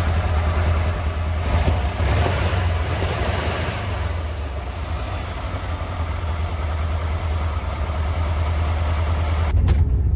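Carburetted car engine idling steadily, after sputtering on the road; the owner puts it down to dirt in the carburetors.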